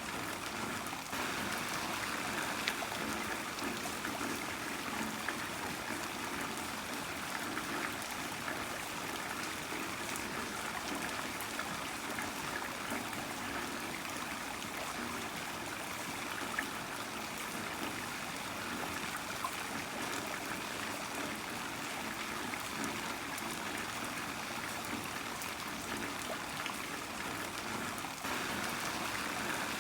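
Heavy rain falling steadily, a dense hiss of drops with many small pattering ticks and some water trickling.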